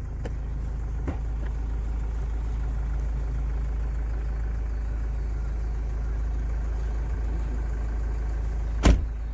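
Steady low hum of an idling engine, with a single loud knock near the end.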